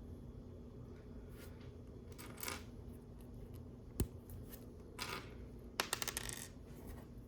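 Small plastic LEGO pieces clicking faintly as they are handled. There is a single sharp click about four seconds in, then a quick rattle of clicks a little before six seconds, as a dropped piece bounces.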